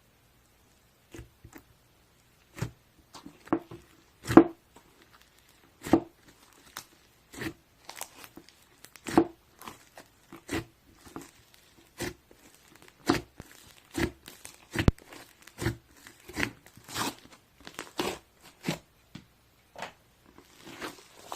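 Slime being squeezed and poked by hand, giving irregular sharp pops and crackles, about one or two a second.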